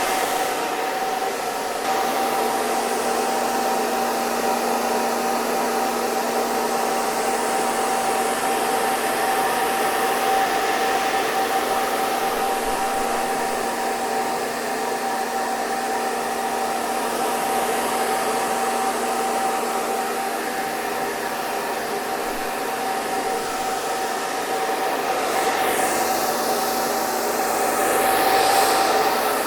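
Hair dryer running steadily: a rush of blown air with a steady motor whine, swelling slightly in loudness near the end.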